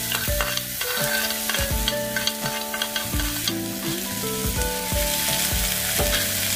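Chopped chicharrón (pork rinds) sizzling in pork lard in a frying pan as finely chopped onion goes in, with a steady hiss of frying.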